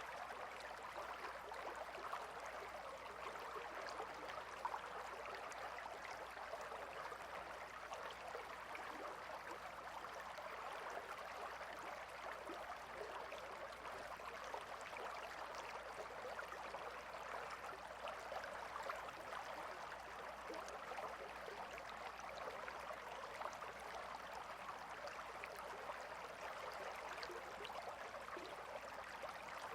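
A gentle river flowing steadily, an even rush of water with fine babbling detail that does not change.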